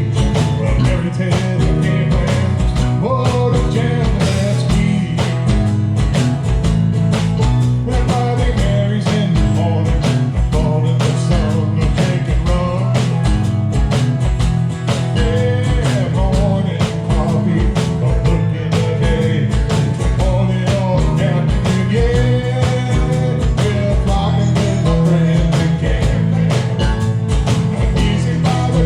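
Live band music: a country-style island song with steel drums, guitar, bass guitar and a drum kit keeping a steady beat.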